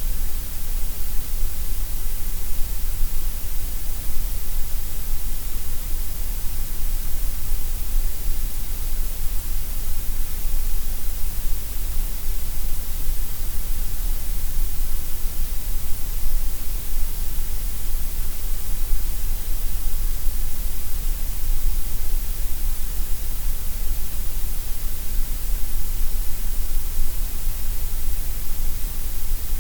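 Gray noise: a steady, unchanging hiss, strongest in the deep lows and the high treble and thinner through the middle.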